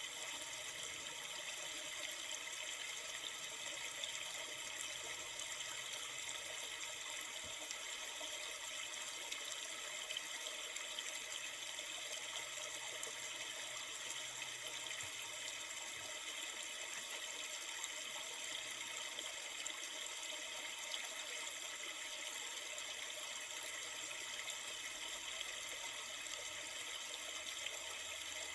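River water flowing steadily: an even, unbroken hiss of running water with no breaks or changes.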